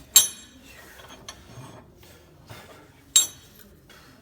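Steel parts of a tractor's three-point hitch being handled: two sharp metallic clinks, about three seconds apart, each ringing briefly, with lighter knocks and rattling between.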